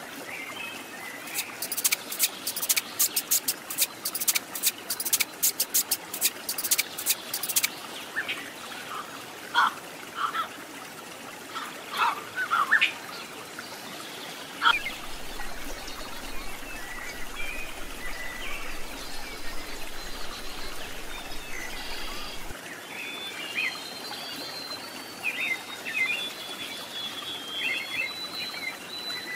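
Birds chirping and calling over a steady trickle of running water. A fast run of sharp clicks or taps sounds for several seconds near the start.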